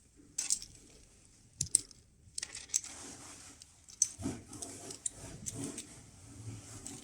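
Light clicks and clattering of small hard plastic parts, a few separate clicks at first and then a busier rattle from about four seconds in, as the jointed segments of an articulated 3D-printed skeleton move against each other.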